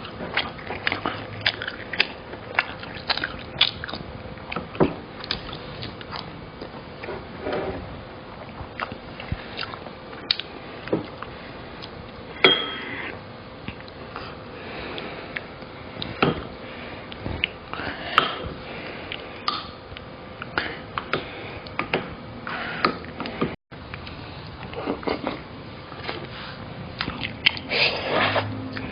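Close-miked eating: a person biting and chewing food, with frequent irregular wet smacks and sharp clicks, over a faint steady hum.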